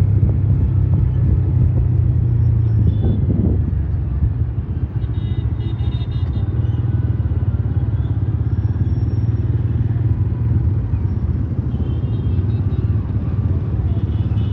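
Motorcycle engine running at a steady pace while riding, a continuous low rumble.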